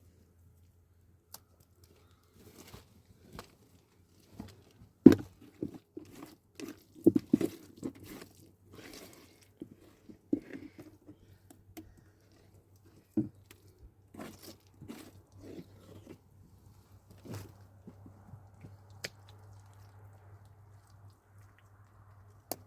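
Irregular close-up crunching and clicking, loudest a few seconds in and then thinning out, over a faint steady low hum.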